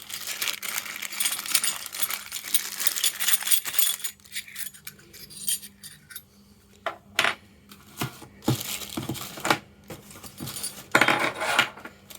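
Packaging rustling and crinkling for the first few seconds, then scattered light clinks and knocks of small hard parts being handled and set down, as the hot air gun and its parts come out of the box.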